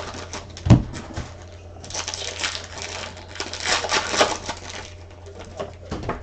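Computer keyboard typing: quick clicking keystrokes in bursts, with one louder knock about a second in.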